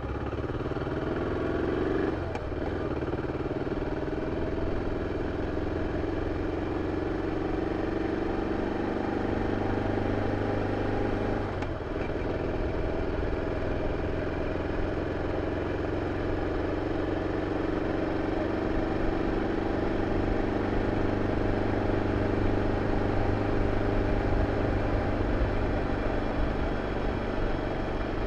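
BMW F 650 CS single-cylinder engine through its original exhaust, under way: the engine note climbs slowly, with a gear change about two seconds in and another near the middle.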